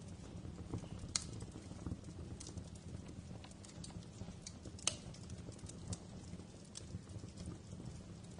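Wood fire crackling in a fireplace: irregular sharp pops and snaps over a steady low rumble of the flames, with two louder pops about a second in and near the middle.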